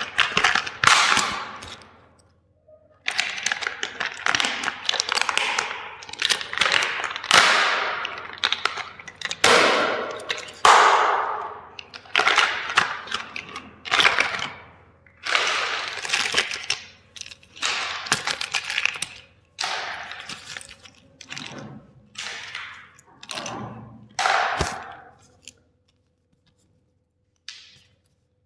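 Plastic toys being crushed, cracking and snapping in a long irregular run of sharp breaks that stops a few seconds before the end.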